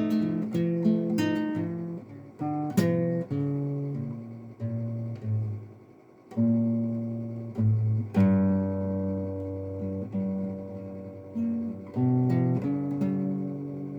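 Acoustic guitar playing an instrumental passage, chords strummed and picked and left to ring, with a short lull about six seconds in.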